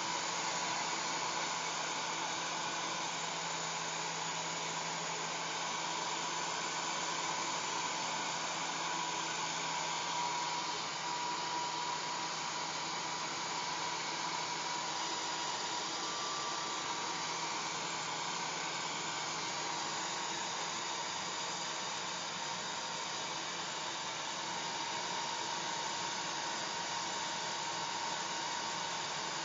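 Hair dryer running steadily: an even airy rush of blown air with a faint motor hum under it, with no change in speed or setting.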